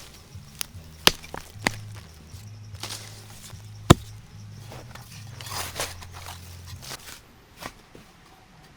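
Several sharp knocks, the loudest about four seconds in, among rustling and handling noise typical of outdoor work. Under them a low hum that shifts in steps stops about seven seconds in.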